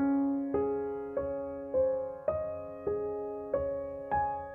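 Background music: gentle piano notes struck one at a time, a little under two a second, each ringing out and fading before the next.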